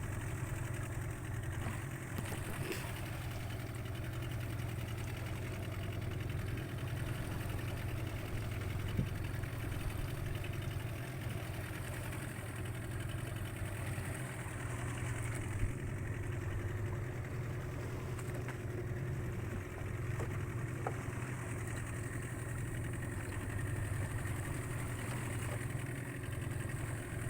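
A small fishing boat's engine running steadily under way: an even low hum that does not change, with a steady hiss over it.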